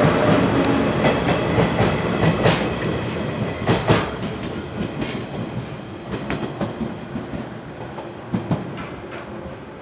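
Local electric passenger train pulling away, its wheels clattering over rail joints in sharp clicks, the running noise fading steadily as the train recedes.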